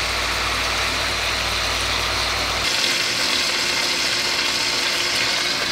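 Lobster tail and grouper fillets sizzling in melted butter in a frying pan, a steady hiss. A low hum underneath cuts off about halfway through.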